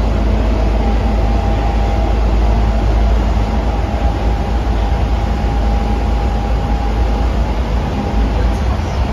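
Osaka Metro 23 series subway car with Hitachi IGBT inverter drive running, heard from inside the car: a heavy steady rumble of wheels and car body with a thin steady whine over it.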